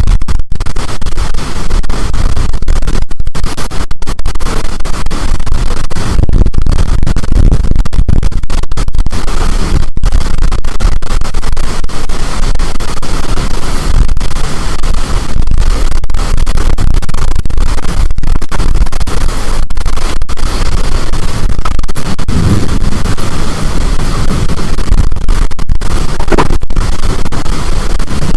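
High storm wind blasting the microphone: loud, constant rumbling wind noise with stronger gusts near the end.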